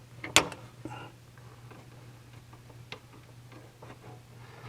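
Light clicks and taps of hand tools on metal engine parts: one sharp click about half a second in, a smaller one near three seconds, and a few faint taps, over a steady low hum.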